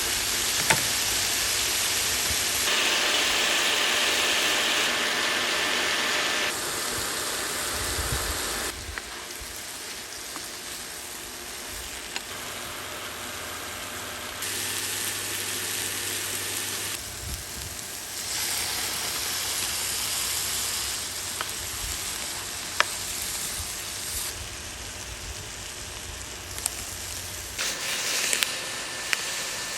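Vegetables sizzling in a frying pan on a portable induction hob: a steady frying hiss that jumps up or down in level several times, with a faint high tone in some stretches and a few small clicks.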